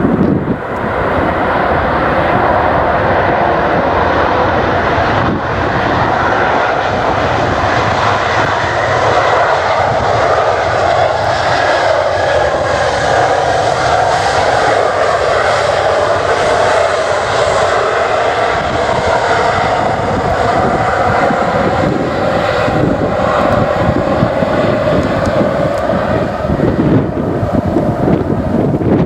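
Airliner's jet engines as the aircraft passes, with the hiss growing brighter around the middle and easing toward the end, and wind rumbling on the microphone underneath.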